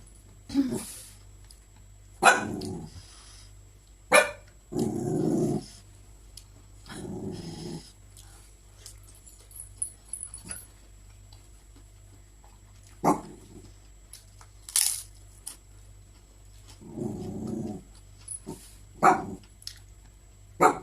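Loud animal calls from a domestic animal, several in a row, each under a second, some with a growl in them. Between the calls come sharp, crisp crunches.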